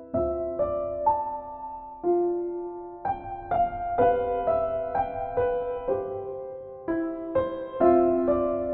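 Slow, gentle solo piano music: single notes and chords struck about every half second and left to ring, in a calm relaxation style.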